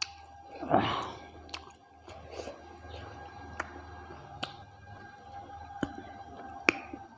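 Close-miked eating sounds from a meal of rice and mutton curry: wet mouth noises and sharp smacking clicks scattered through, with one louder, longer mouth sound about a second in. A faint steady hum sits underneath.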